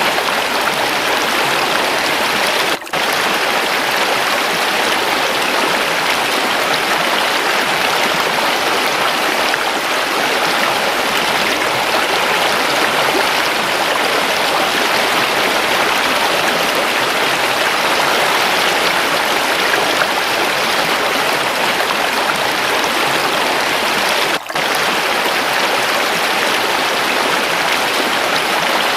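Waterfall and running water rushing steadily in an even hiss, dipping very briefly twice, about three seconds in and near the end.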